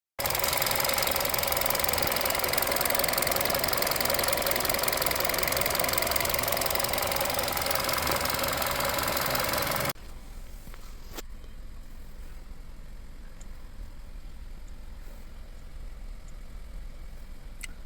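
Kia K3's Gamma II 1.6 MPI four-cylinder petrol engine running steadily, heard loud and close. It drops abruptly to a much quieter steady run about ten seconds in, with a couple of short clicks after that.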